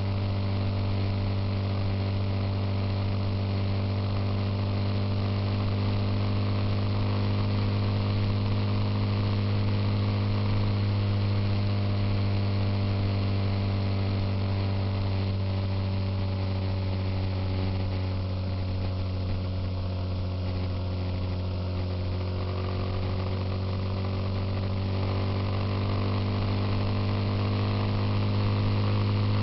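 Suzuki Intruder motorcycle engine running steadily at cruising speed. It eases off slightly about two-thirds of the way through, then climbs a little in pitch near the end.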